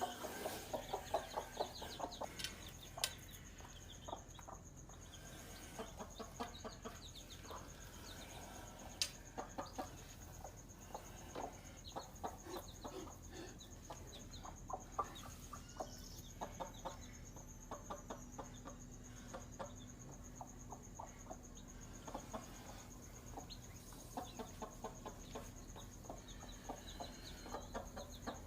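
Hen clucking in short, repeated calls, with faint high peeping from chicks now and then.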